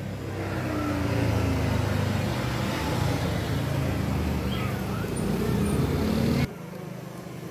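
A steady low rumble, like a motor running, with a few faint kitten meows above it. The rumble cuts off suddenly about six and a half seconds in.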